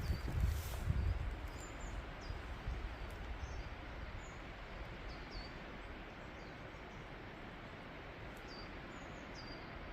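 Woodland ambience: a steady outdoor hiss with small birds giving short, high chirps scattered throughout. There is a low rumble in the first second or so.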